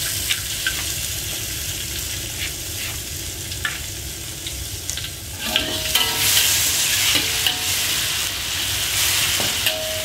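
Ground chili and shallot spice paste sizzling as it hits hot oil in an aluminium wok. A few sharp clicks come in the first half, and from a little past halfway a metal spatula scrapes and clatters against the wok as the paste is stirred.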